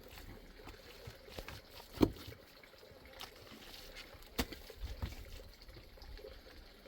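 Irregular knocks and handling sounds over a faint trickling, water-like noise; the loudest knock comes about two seconds in, another a little after four seconds.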